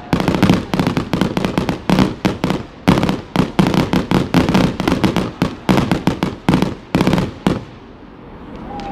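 Fireworks exploding in a rapid barrage, several loud bangs a second. The bangs thin out and die away after about seven and a half seconds, leaving a fading rumble.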